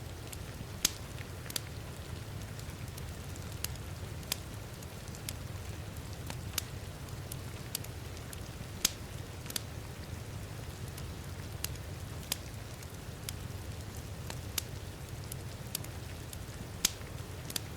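Wood fire crackling, with irregular sharp pops and a few louder snaps, over a steady even rush of rain.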